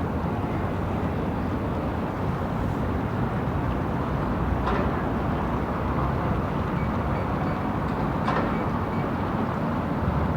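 City street ambience: a steady low rumble of traffic, with a couple of faint short clicks about four and a half and eight seconds in.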